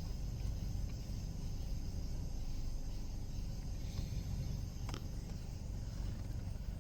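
Steady low background rumble with a faint hiss, and a single faint click about five seconds in.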